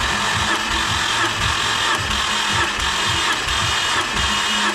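2011 Subaru WRX's flat-four engine cranking on its starter motor with the spark plugs out for a compression test, an even chugging about three times a second over the starter's whine.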